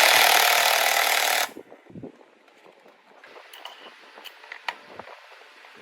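A power tool runs in one loud burst of about a second and a half, then cuts off, followed by faint clicks and knocks of metal parts being handled.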